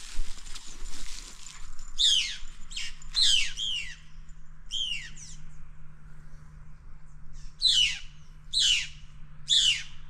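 A bird calling a series of sharp downward-sweeping notes: a quick cluster of several, then three more spaced about a second apart near the end. A brief rustling hiss comes before the first call.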